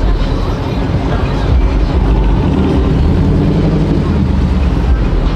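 A V8 muscle car engine running loud, its pitch holding fairly steady through the middle, with no clear break.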